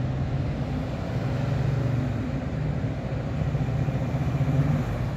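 1970 Buick GS455's 455 cubic-inch V8 running as the car drives across a lot. Its low, steady engine note swells about a second in and again near the end.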